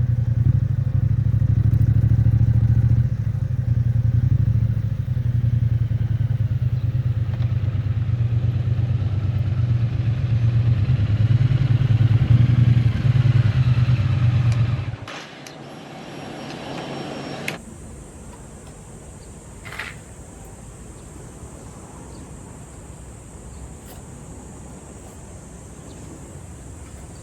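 Triumph Bonneville T100's 900 cc parallel-twin engine running steadily at low revs, then shut off about fifteen seconds in. After that there is only a low background with a faint steady high whine and a single click.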